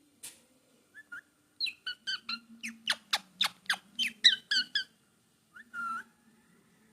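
Baby parrot chirping in a quick run of short, high calls, about three a second, many of them falling steeply in pitch, followed near the end by one longer squawk.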